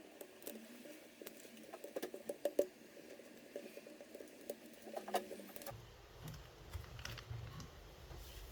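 Faint, scattered small clicks and scratches of hands working on a laptop's internal battery, peeling off the small strips of tape that hold it in place. A faint low steady background noise comes in about two-thirds of the way through.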